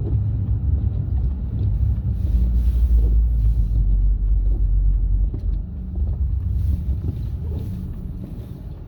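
Low rumble of a car driving on snowy roads, swelling a couple of seconds in and easing off near the end.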